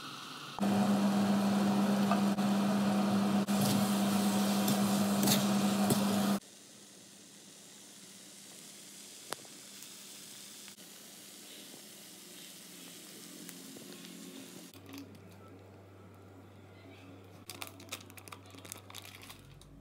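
Chicken masala sizzling in a cast-iron kadai, loud for the first six seconds over a steady hum. After that the sound drops to a faint sizzle, with a few light clicks near the end.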